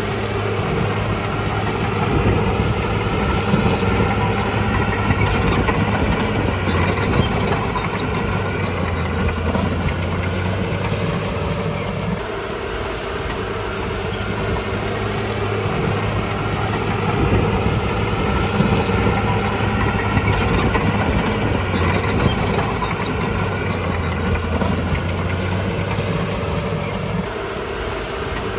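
Crawler bulldozer's diesel engine running steadily, its pitch dipping and coming back up a few times as the load changes. Twice, about fifteen seconds apart, bursts of metallic clatter from the steel tracks rise over it.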